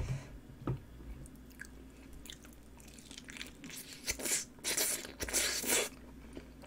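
Close-up mouth sounds of biting into and chewing a honey-glazed roast chicken drumstick dipped in mustard sauce: a run of bites and chews from about two to six seconds in, after a couple of small clicks near the start.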